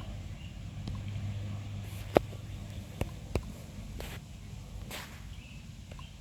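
Handling noises: a few sharp clicks, the loudest about two seconds in, and two brief rustles near the four- and five-second marks, over a steady low hum.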